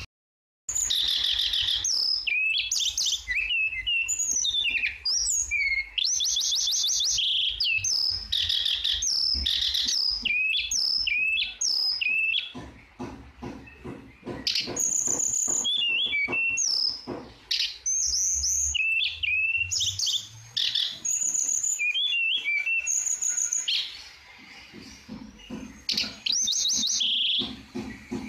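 Tledekan songbird singing vigorously: a rapid, varied string of chirps, whistled glides and buzzy trills, phrase after phrase with short pauses. It starts just after a brief silence at the beginning.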